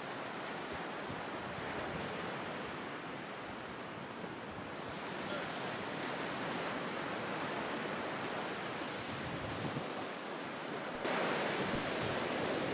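Mediterranean sea waves washing onto the shore, a steady rushing wash with some wind. It becomes suddenly louder and brighter near the end.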